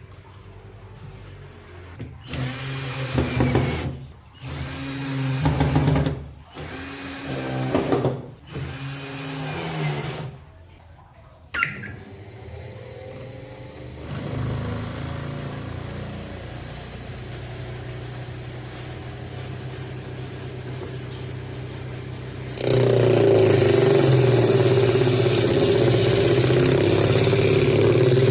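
A small electric power-tool motor run in short bursts about two seconds apart, then running steadily. About three-quarters through it becomes much louder and harsher and stays that way.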